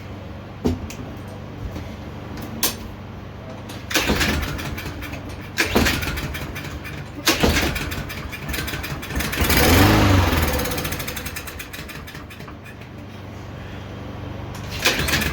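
Briggs & Stratton 6.75 lawnmower engine being pull-started several times. About ten seconds in it fires and runs for a couple of seconds on a shot of carb cleaner, then fades out and dies without picking up fuel from the carburetor.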